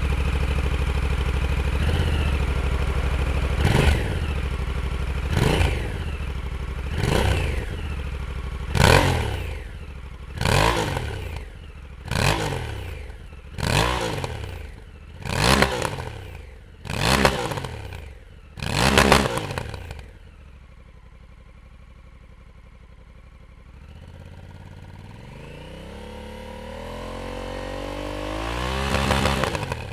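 Honda CRF1100L Africa Twin's parallel-twin engine heard at the exhaust, idling and then blipped about ten times, roughly one rev every second and a half, each rev rising and falling back to idle. About twenty seconds in the engine sound drops away. Near the end an engine note rises steadily in pitch and loudness for several seconds, then cuts off suddenly.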